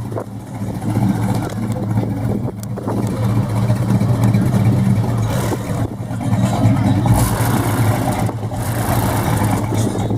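Car engine running at a steady, loud idle, its rumble holding one pitch without revving.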